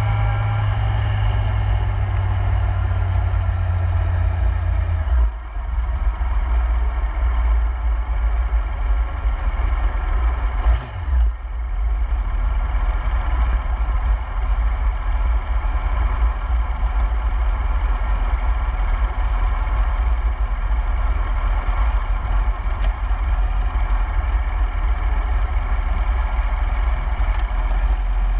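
Yamaha YZF-R1's inline-four engine running as the motorcycle cruises along, heard from a camera mounted on the bike, with heavy low wind rumble on the microphone. The sound briefly dips twice, about five and eleven seconds in.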